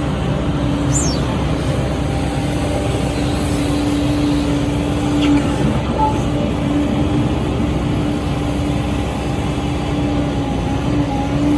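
SANY SY135C excavator's diesel engine running steadily under work, with a constant hum heard from the machine itself. A brief falling whistle sounds about a second in.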